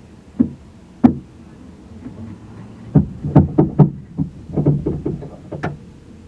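A series of knocks and thumps: two single knocks in the first second or so, then a quick run of about a dozen more over the next few seconds.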